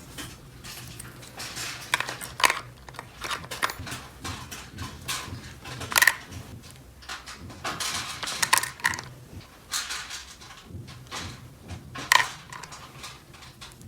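Small plastic toy pieces being handled and set down: irregular light clicks and clatter with some rustling, with two louder sharp clacks about halfway through and near the end.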